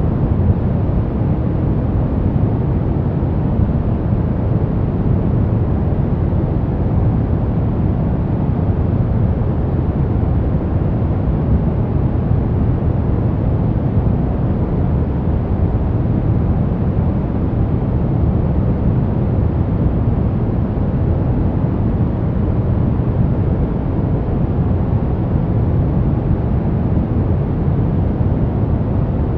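Steady white noise for baby sleep: an even, unchanging rushing hiss, deep and heavy in the low end with little treble.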